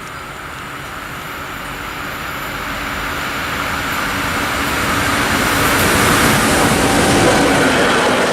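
A train approaching, its rumble and rail noise growing steadily louder.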